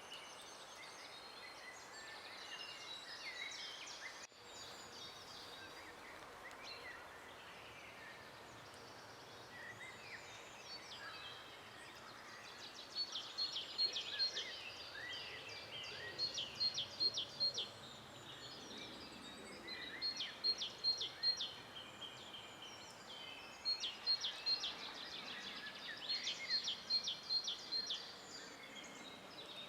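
Several songbirds singing in a forest, with many short chirps and whistles. From about halfway through, one bird's louder song phrase of quick repeated notes comes back every few seconds.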